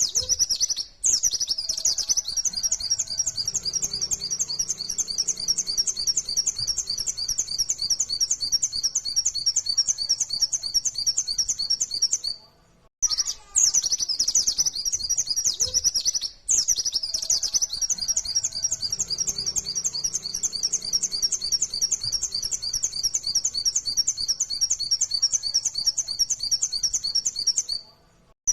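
Pleci (white-eye, Zosterops) singing a fast, unbroken trill of high rapid-fire notes, the 'nembak' song style. It is a looped recording: the same stretch of about twelve seconds plays twice, with a brief break between.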